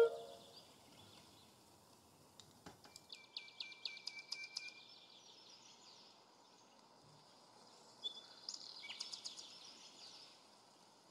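Faint outdoor birdsong: a quick run of short chirps about two and a half seconds in, and another about eight seconds in, over a light background hiss.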